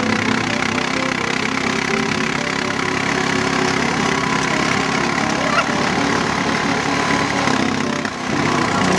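Car engine running steadily at low speed while towing.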